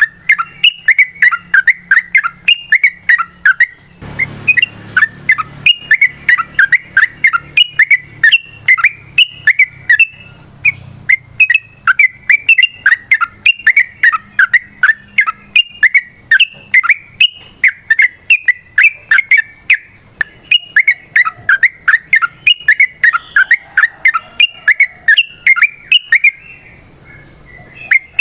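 Yellow-vented bulbul (trucukan) calling in a long, rapid run of short chattering notes, several a second, breaking off briefly near the end. The recording is used as a lure to set other trucukan calling.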